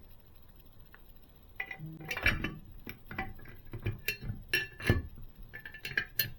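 Small model motorcycle parts handled on a tabletop: after a quiet second or so, a quick run of clicks, clinks and taps with a couple of louder knocks as pieces are taken apart and refitted.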